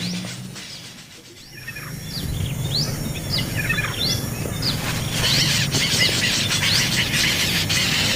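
Hungry nestling birds begging for food with high, repeated chirping calls. The calls fade briefly about a second in, then come back louder and grow denser from about five seconds on.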